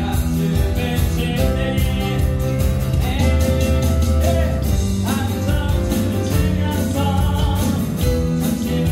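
Live worship band playing an upbeat praise song with singing, on acoustic guitar, keyboard, bass guitar and electronic drums.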